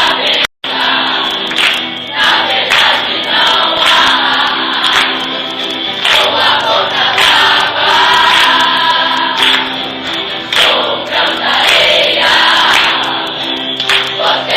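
Music with many voices singing together in chorus over held instrumental notes. The sound cuts out completely for a moment about half a second in.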